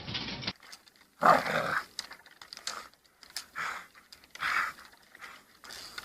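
A dog vocalizing in several short bursts about a second apart, the first the loudest, with a few light clicks between.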